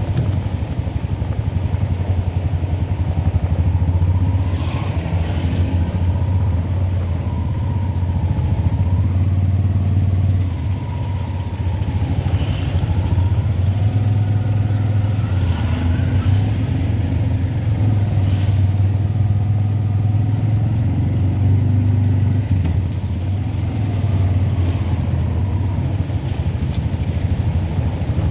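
A vehicle's engine running on the move, a steady low hum whose pitch rises and falls with speed, with a few brief hisses of road noise.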